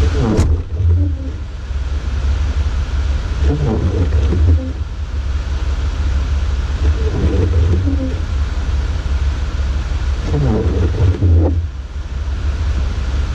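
Steady low rumble of a vehicle, with faint muffled voices now and then.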